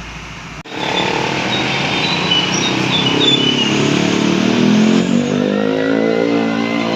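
Truck engine pulling hard, its pitch climbing steadily as it accelerates, starting abruptly about half a second in over a steady rush of road noise.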